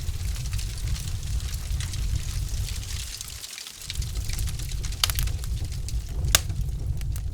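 Wood fire crackling in a fireplace: scattered pops and snaps of burning logs over a low rumble, with one sharper pop about six seconds in.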